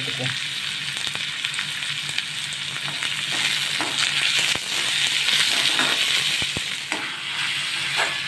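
Chopped onion and tomato sizzling in hot oil in a metal kadai, with a steady hiss. A steel spatula stirring the mix scrapes and clicks against the pan.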